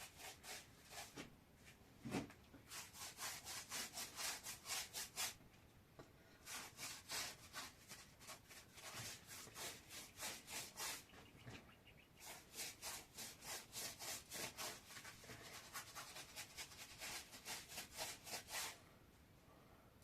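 Rhythmic scraping or rubbing strokes, about four to five a second, in runs broken by short pauses.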